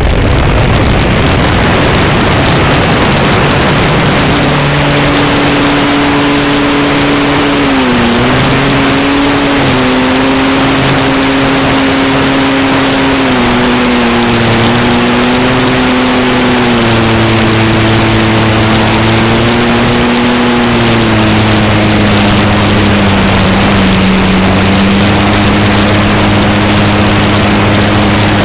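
Heavy wind noise on the onboard camera's microphone of an electric E-flite Cherokee RC plane, with the brushless motor and propeller hum coming in about four seconds in. The hum dips and shifts in pitch several times as the throttle changes, and settles lower in the second half.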